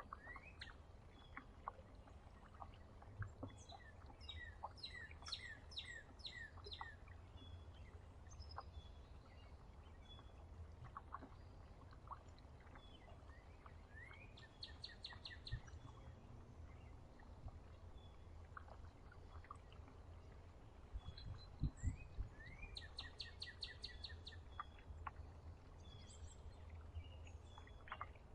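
Songbirds calling faintly: scattered chips and three bursts of rapid repeated call notes. A few low thumps about three-quarters of the way through.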